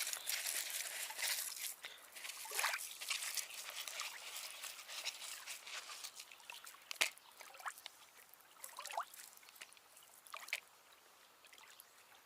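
Hands kneading and squeezing water-soaked bread into fishing groundbait: soft wet squelching and dripping, with a few sharp clicks, fading out near the end.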